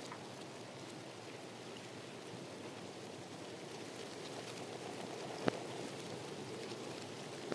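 Steady rushing water noise, with one sharp click about five and a half seconds in.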